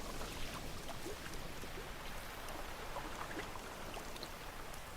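Steady watery hiss of nature ambience with faint, scattered short chirps and ticks, slowly fading out.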